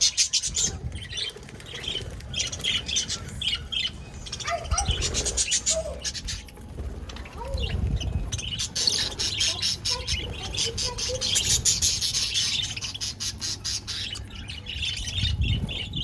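Budgerigars chirping and chattering without a break, many quick high chirps overlapping one another.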